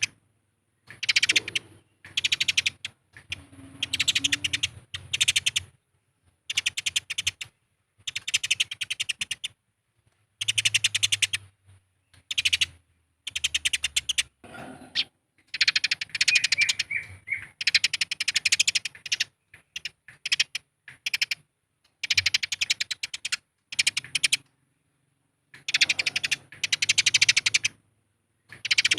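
Eurasian tree sparrows' fighting chatter: very rapid, harsh chirping in bursts of about a second each, broken by short silences, about a dozen bursts in all.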